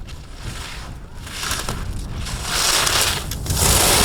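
Slalom skis carving and scraping on firm snow, a hissing scrape that swells with each turn about once a second and grows louder towards the end.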